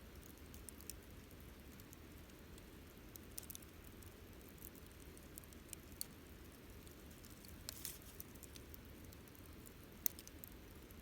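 Wood campfire crackling: scattered small snaps and pops over a faint low rumble, with one sharper pop about ten seconds in.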